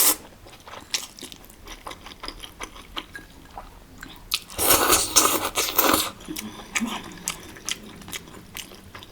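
A person chewing and eating hotpot noodles close to the microphone: many small clicks and mouth noises, with a louder, noisier stretch of about a second and a half near the middle.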